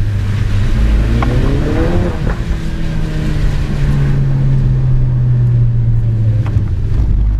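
Car engine running hard under throttle during a wet-road drift, climbing in pitch over the first couple of seconds, then holding high until it drops back near the end.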